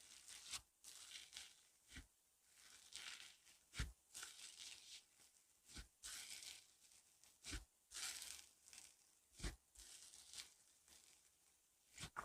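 Slime being squished and stretched by hand, faint crackling and crinkling with a sharp pop about every two seconds.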